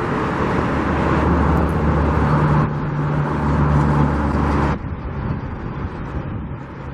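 Traffic noise: a vehicle engine running with a steady low hum under a broad rush of road noise, which drops off suddenly a little under five seconds in, leaving a quieter steady hum.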